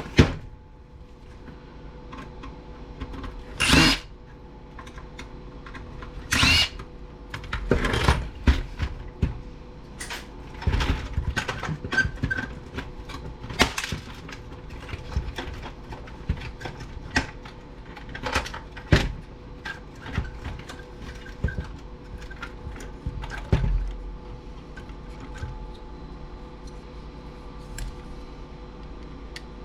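Scattered clicks, taps and knocks of screws and stereo parts being handled during disassembly, with a few short bursts of a cordless drill-driver backing out screws, the loudest near 4 and 6 seconds in.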